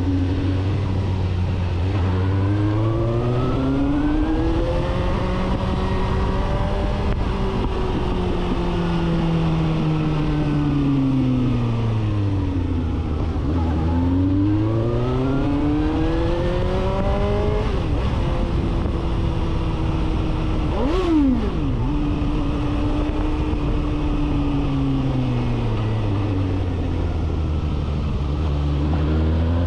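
Suzuki GSR750's inline-four engine through a full 4-into-1 aftermarket exhaust, heard from the bike as it rides: the revs climb and fall in long sweeps as it accelerates and slows, with a quick throttle blip about 21 seconds in.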